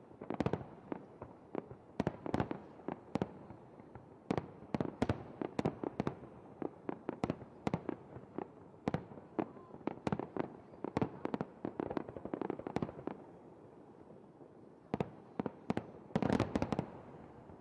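Fireworks display: aerial shells bursting in rapid, uneven bangs and crackles. There is a brief lull about three-quarters of the way through, then a dense flurry of bangs near the end.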